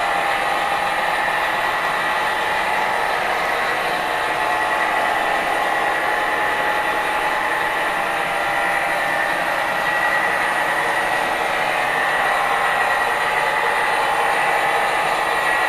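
Diesel engine sound effect from the Protosound 2.0 speaker of an MTH Premier Genset model locomotive, running steadily with an even hum.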